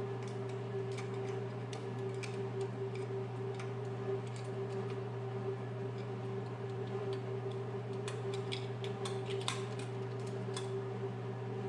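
Steady electrical hum from a battery charger charging a car battery, with scattered light clicks and ticks, more of them in the second half.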